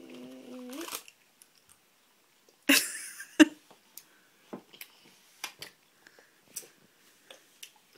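Children chewing jelly beans, with small scattered wet mouth clicks. A child's held "mmm" ends about a second in, and a short loud noisy burst and a sharp click come near the middle.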